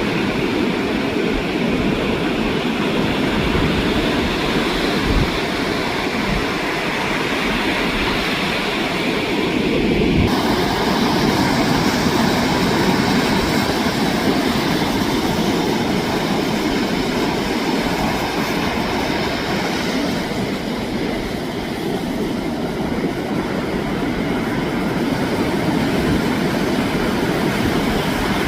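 Ocean waves breaking on a beach, heard as a steady low rush of surf, with wind buffeting the microphone.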